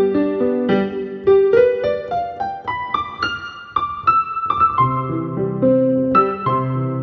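Piano playing a slow, gentle melody: a run of single notes climbs upward in the middle, then low bass chords come back in for the last couple of seconds.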